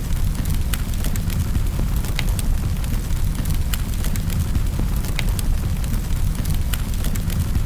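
Fire in a fireplace crackling, with irregular sharp pops and snaps, a few each second, over a steady low rumble.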